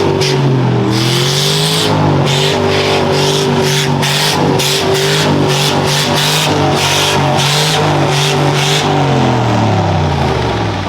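Engine revving hard and held at high revs, dipping once about half a second in and then winding down near the end. A rhythmic high hiss pulses over it about twice a second.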